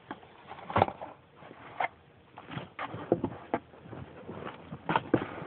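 Scattered knocks and clatter of objects being moved and handled while someone rummages for a funnel, with a handful of sharper knocks about a second apart.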